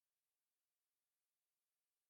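Near silence: the soundtrack is essentially blank, with only a faint even hiss.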